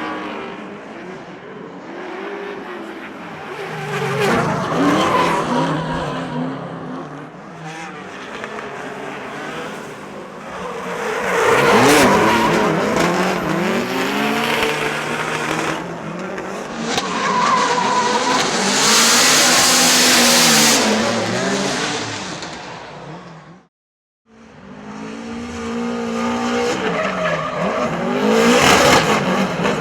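Drift cars at full throttle: turbocharged engines revving up and down again and again as the cars slide, over tyres squealing and hissing on the track. The sound cuts out for a moment about three-quarters of the way through, then comes back.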